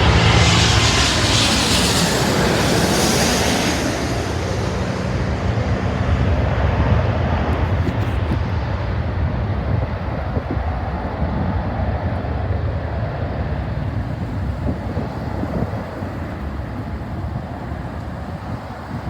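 Jet airliner passing low overhead on its landing approach: a loud roar that is strongest in the first few seconds, then fades gradually as the plane moves away.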